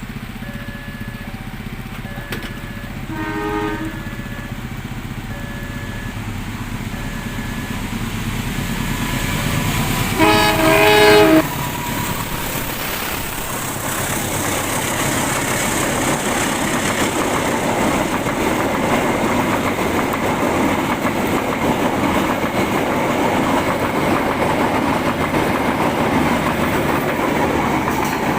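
Railway crossing warning signal ringing in an even pattern about once a second, then a diesel locomotive horn: a short toot about three seconds in and a loud blast lasting about a second near ten seconds. From about twelve seconds the train passes the crossing, a loud steady rumble and rattle of wheels on the rails.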